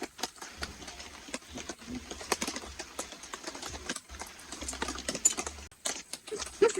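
Raindrops tapping irregularly on a tarp, a dense scatter of light clicks several times a second.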